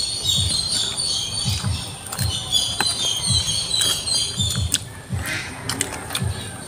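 Close-up chewing of grilled fish and rice, soft munches about twice a second, with birds chirping in the background.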